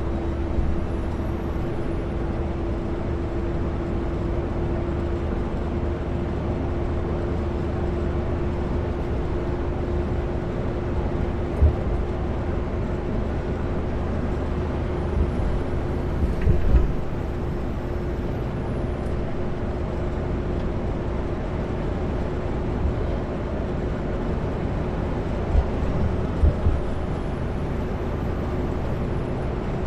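Kenworth W900L semi-truck running at highway speed: a steady engine and road drone with one constant hum. A few short knocks come through, about a third of the way in, just past halfway, and again near the end.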